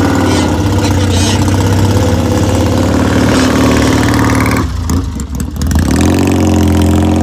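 Big Triumph-engined Rickman Metisse motorcycle running and being revved: the engine note climbs, drops away for about a second, then picks up again and holds a steady higher note.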